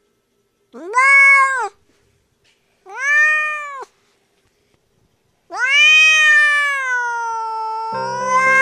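Oriental cat meowing three times: two short meows about two seconds apart, then a long drawn-out meow that dips in pitch in the middle and rises again. Music comes in near the end.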